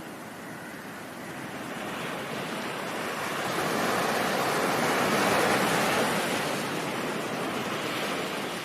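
Ocean surf: a wave of rushing water noise swells over several seconds, peaks about halfway through, then slowly eases off.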